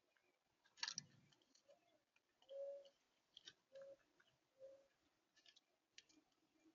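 Birds at a feeder: scattered soft clicks and taps, with four short, low calls about a second apart in the middle.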